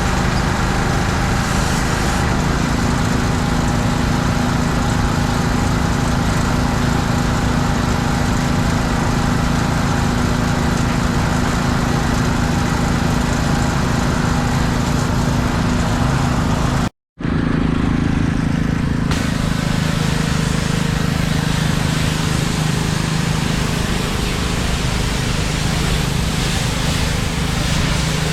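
Small engine of a pressure washer running steadily under the hiss of the water spray. The sound drops out for an instant about two-thirds of the way through, then carries on with its steady tone a little lower.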